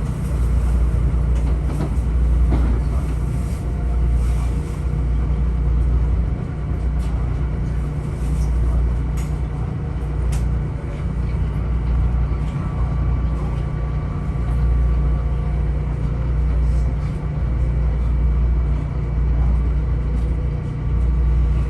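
Metro-North M7A electric multiple-unit train running between stations, heard from inside the car: a steady low rumble that swells and fades about every two seconds, with faint steady hum tones and a few light clicks.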